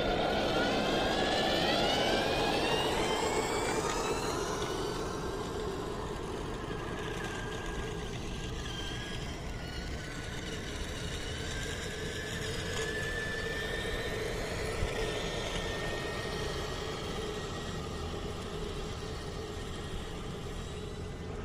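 Whine of an RC truck's electric motor and gears, sliding down in pitch over the first few seconds, then holding steady and wavering, over a continuous running noise.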